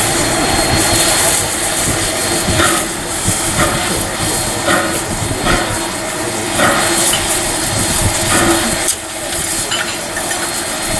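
Steam locomotive Ww 644 running, heard from inside its cab: a loud, steady hiss and rumble with a faint regular beat about once a second.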